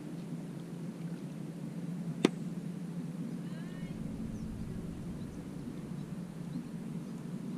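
Steady low drone, with one sharp click about two seconds in and a short burst of bird chirps a second later.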